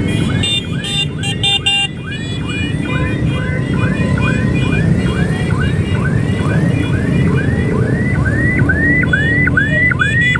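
Electronic siren in a fast yelp, its pitch sweeping up about three times a second and getting louder near the end, over the steady running of motorcycle engines.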